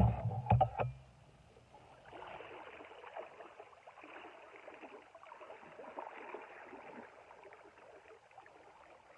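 River water rushing and gurgling, with a low rumble and a few sharp knocks in the first second.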